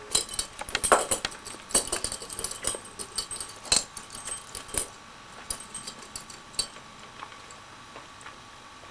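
A rapid flurry of sharp clicks and rattles, dense for about five seconds and then thinning to scattered clicks, over a faint steady high hum.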